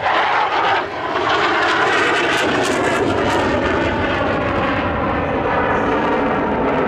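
Jet noise from a General Dynamics F-16C Fighting Falcon in flight: a steady, loud rush after a brief dip in the first second.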